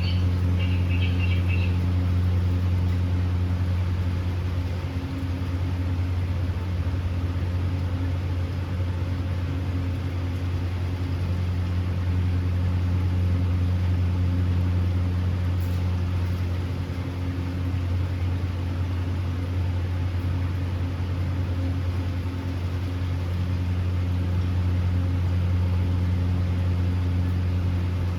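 A steady low electrical or mechanical hum, like a household appliance or fan motor running. Cockatiels chirp briefly in the first second or so.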